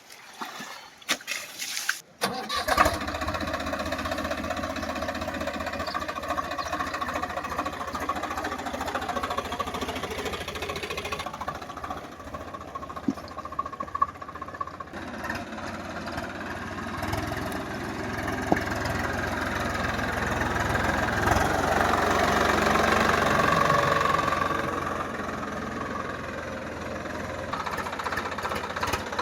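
A diesel tractor engine starts about two seconds in and then runs steadily with a low knocking beat. It runs louder for a few seconds past the middle, then settles back.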